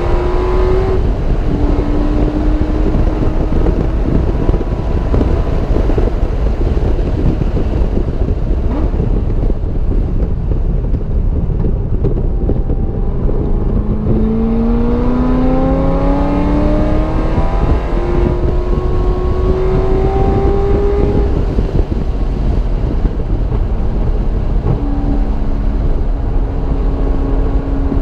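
A car engine at full throttle on a race track, its pitch climbing under acceleration and dropping back at gear changes and braking, then holding steady near the end. Constant heavy wind and road noise runs underneath.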